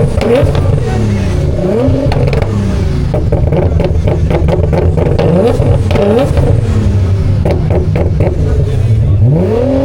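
Car engines being revved hard again and again, each blip climbing in pitch and falling back, over a loud steady idle, with sharp cracks and pops throughout.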